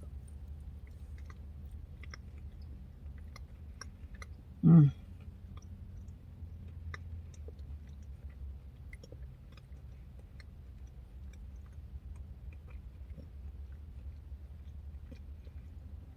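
A person chewing a yogurt parfait close to the microphone: soft, wet mouth clicks and smacks scattered throughout, with one brief voiced sound from the eater about four and a half seconds in. A steady low hum sits underneath.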